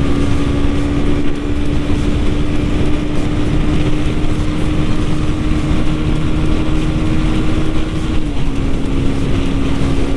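KTM Duke 390's single-cylinder engine running steadily at highway speed, under heavy wind noise on the microphone. The engine note dips briefly about eight seconds in, then holds again.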